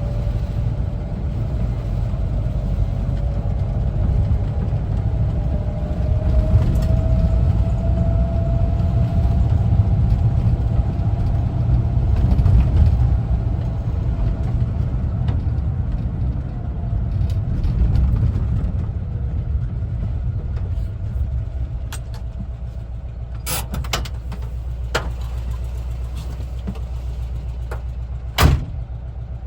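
The air-cooled Type 4 flat-four engine of a 1974 Volkswagen Westfalia camper van runs on the move. A low rumble carries a whine that rises over the first several seconds and then eases off. The engine gets quieter in the last third, and a few sharp knocks come near the end, the loudest about a second before it finishes.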